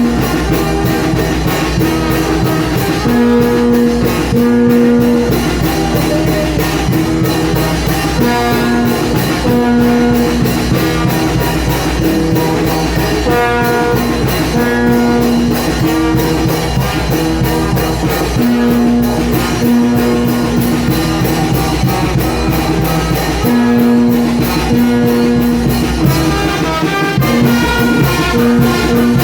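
A Mexican banda (brass band) playing loud, with repeating phrases of held horn notes over a steady drum beat.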